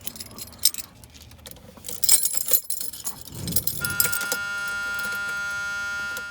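Keys jangling and clicking in the ignition, then, about four seconds in, a steady electric buzz starts and holds for over two seconds: the truck's warning buzzer with the key turned on.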